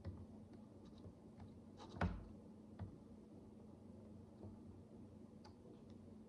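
Micro building bricks being handled and pressed together: a few faint clicks and taps, with a louder knock about two seconds in, over a faint steady hum.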